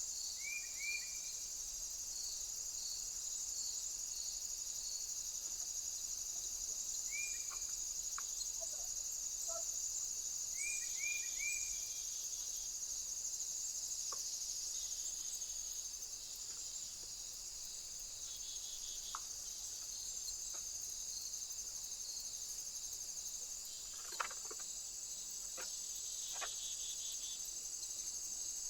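Steady, high-pitched chorus of insects such as crickets, with a few brief bird chirps in the first half and some faint clicks near the end.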